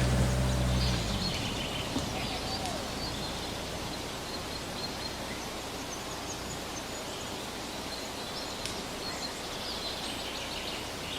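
Quiet forest ambience with small birds chirping now and then, in two short spells. A low hum fades out about a second in.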